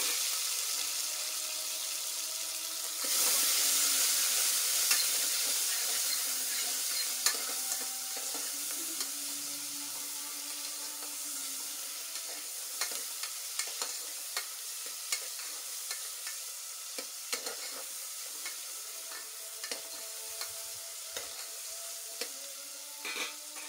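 Sliced onions and tomatoes sizzling in hot oil in an aluminium pressure-cooker pot while a spoon stirs them, with many short clinks of the spoon against the pot. The sizzle grows louder about three seconds in, then slowly fades.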